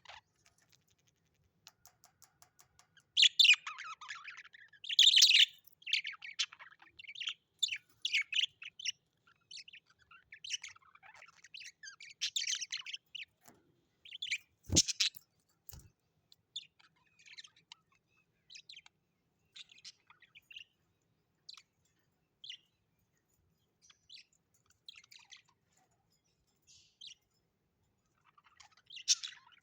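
Birds chirping and twittering in quick, high, short calls, loudest and densest a few seconds in and thinning out later. A single sharp click or knock about halfway through.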